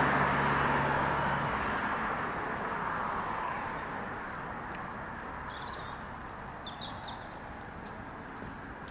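A vehicle passing close by and receding, its noise dying away over several seconds. A few faint bird chirps come through in the second half.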